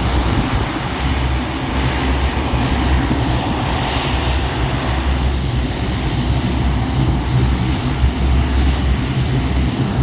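C-130 Hercules's four turboprop engines and propellers running with a steady drone.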